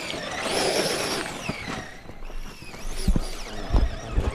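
Electric motor and gear drive of a scale RC crawler truck whining as it revs up, holds and winds down, followed by a few low thumps near the end.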